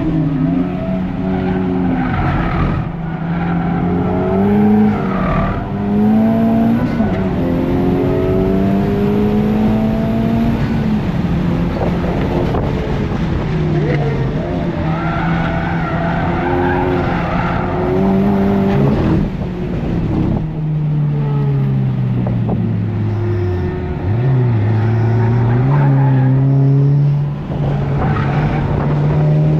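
Honda Civic Type R's K20C1 2.0-litre turbocharged four-cylinder engine at full throttle on track, its pitch climbing and dropping back with each upshift. About two-thirds of the way in the revs fall in steps through downshifts under braking, then climb again as it pulls out.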